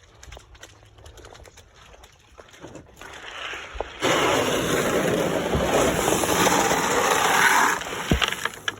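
A bucket of cracked corn and beef pellets poured into a calf feeder: a dense, grainy rush that starts suddenly about four seconds in, runs nearly four seconds, then stops.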